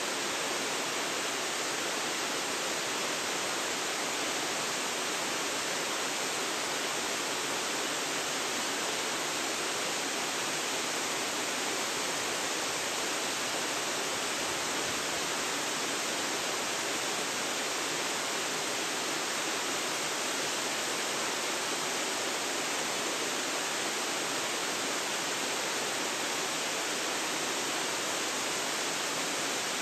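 Waterfall pouring, an even, unbroken rush of water at a constant level, picked up by a phone's built-in microphone.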